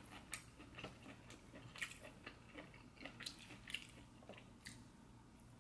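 Faint chewing close to the microphone: an irregular run of soft mouth clicks and smacks as a mouthful of food is chewed.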